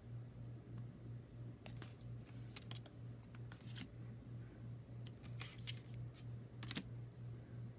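Faint handling of tarot cards and their packaging: scattered soft clicks and rustles, the sharpest near the end. Under them runs a low hum that pulses evenly several times a second.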